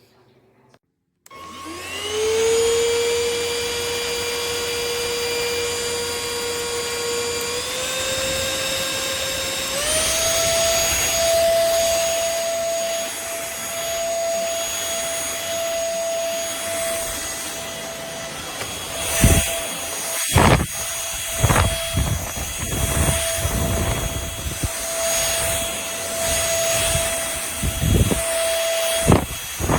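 Trucozie cordless stick vacuum switched on, its motor whine rising as it spins up, then stepping up in pitch twice as it is switched up through its power settings. In the second half, irregular thumps sound over the steady whine.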